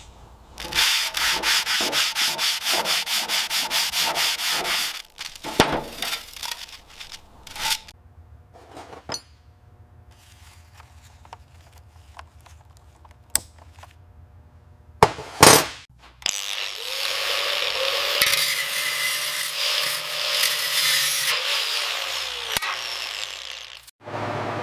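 Sanding strokes, about three a second for several seconds, then a few sharp knocks and taps. A longer stretch of steady abrasive rubbing follows.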